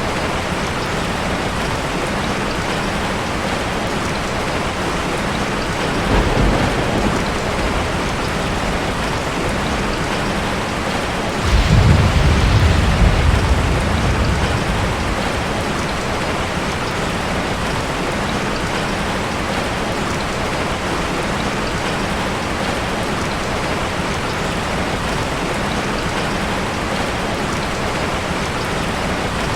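Steady rain falling, with thunder: a short low rumble about six seconds in and a longer, louder roll a few seconds later.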